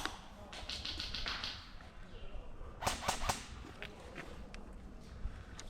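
Airsoft guns firing: a quick burst of three or four sharp snapping shots about three seconds in, with a few fainter single shots scattered around it.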